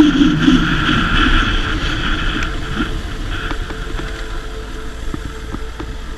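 Honda CBR1000RR sport motorcycle's inline-four engine easing off, its sound and the wind rush fading away steadily.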